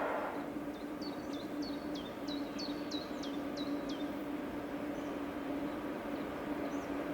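A small bird singing one phrase of about seven quick, high, repeated notes, each dropping in pitch, over a steady low hum.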